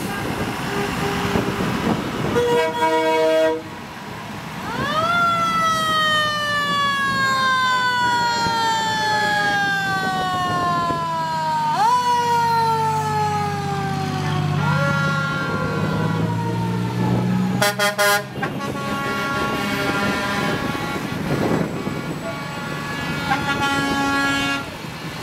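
Truck air horns blasting, then a siren that rises sharply and falls slowly, three times in a row, over a passing engine's low rumble, followed by more horn blasts near the end.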